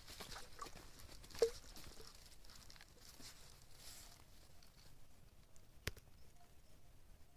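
Faint rustling and crackling of dry leaf litter and twigs underfoot, with a sharp knock about a second and a half in and a crisp snap near six seconds.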